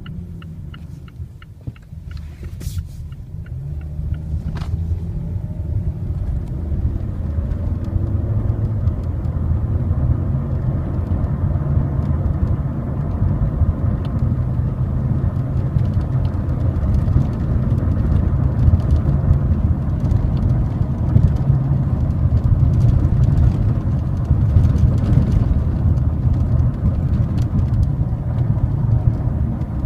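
Cabin noise inside a moving 2017 Mazda 3: low road and engine rumble that grows louder over the first several seconds as the car picks up speed, then holds steady. A couple of short clicks come in the first few seconds.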